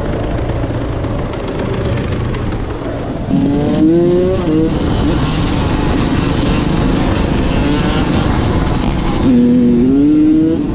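Motorcycle engine running under way with steady rushing noise, revving up twice, about three seconds in and again near the end, its pitch rising each time.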